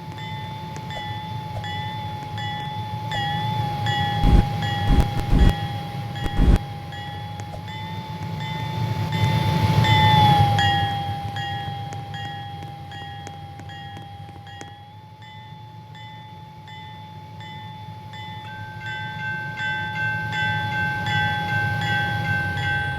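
Freight train running, a steady low rumble with a steady high whining tone over it. There are a few sharp knocks about four to six seconds in, and the sound swells around the middle, the tone dropping slightly in pitch as it fades.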